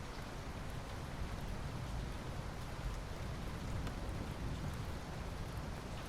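Steady rain falling, an even patter with a low rumble beneath it and faint scattered drop ticks.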